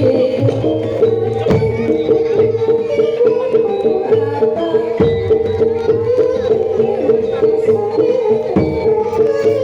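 Traditional Javanese jaranan dance music: hand drums beat steadily under a held, wavering melodic line.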